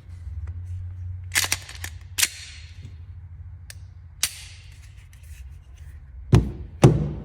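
Gunshots: a handful of sharp cracks in the first half, some trailing a hissing echo, then two heavier, deeper shots about half a second apart near the end, over a low steady rumble.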